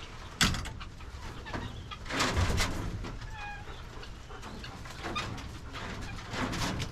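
Poultry clucking and giving short chirps, with a sharp knock about half a second in and a louder rustling stretch around two seconds in.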